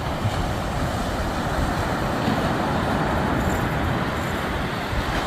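Steady rumble of sea surf breaking, with wind buffeting the microphone.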